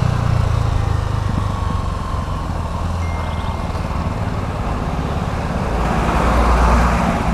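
Motor vehicle engine running steadily in city road traffic, with a rush of traffic noise swelling louder about six seconds in.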